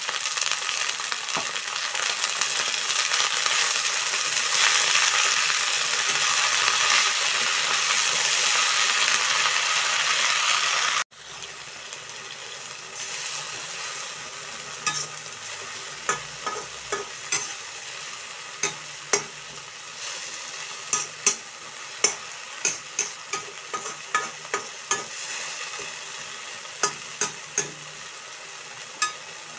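Spinach and fenugreek leaves sizzling in oil in a hot steel wok, loud and dense for about the first ten seconds. After a sudden break, the sizzling is quieter, with many sharp clicks and scrapes of a metal skimmer stirring against the wok.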